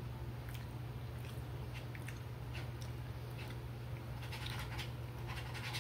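A person chewing food, with scattered soft mouth clicks, over a steady low hum.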